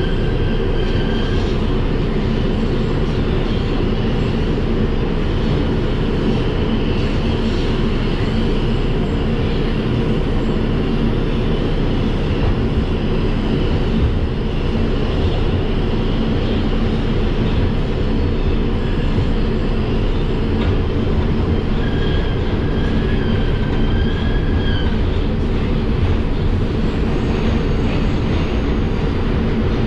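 Interior of an R142 subway car running between stations: a steady rumble of wheels on rail and traction motors. A wavering high-pitched wheel squeal rises over it briefly near the start and again for a few seconds about 22 seconds in.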